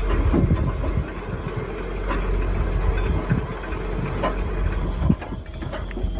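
Heavy engine idling steadily, with a few short knocks and one sharp bang about five seconds in.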